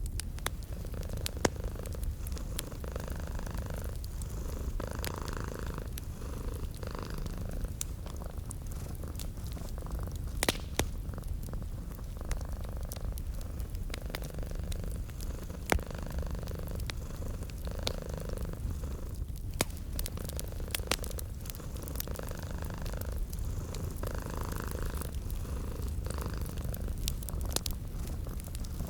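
Domestic cat purring steadily, a low rumble that swells and eases every second or two, over a wood fire crackling with scattered sharp pops.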